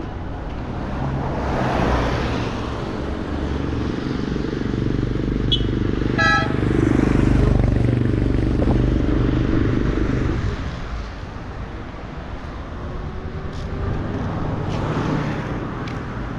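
Road traffic: vehicle engines rumble past close by, loudest from about six to ten seconds in. A vehicle horn gives a short toot about six seconds in.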